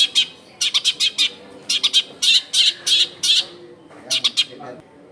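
Long-tailed shrike (cendet) in full song: loud, harsh, short notes delivered in quick bursts of three to five, repeated in several groups with brief pauses between.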